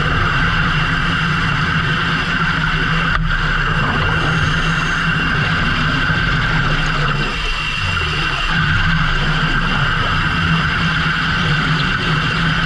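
Fishing boat engine running steadily, with a high, even whine above the low hum.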